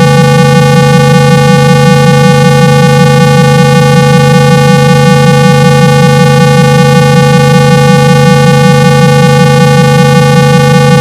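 A loud, steady 165 Hz buzzing tone with many overtones and a slight fast flutter: a speaker-cleaning tone played to shake water out of a phone's loudspeaker and clear muffled sound.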